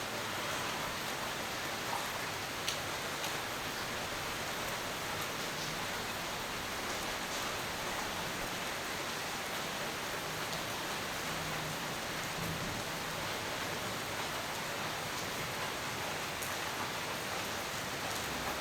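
Steady rain falling, an even hiss with a few sharp drops ticking on a surface.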